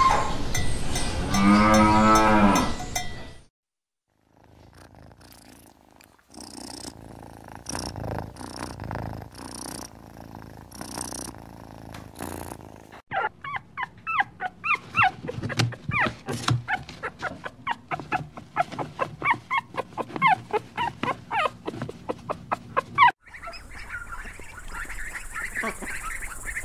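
A cow moos once, one long call that ends about three seconds in. From about thirteen seconds in, a run of quick, short high-pitched calls, several a second, lasts about ten seconds.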